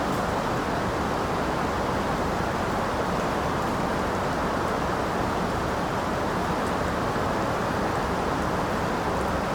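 Steady rain falling, an even, unbroken rushing hiss with no separate drops or thunder standing out.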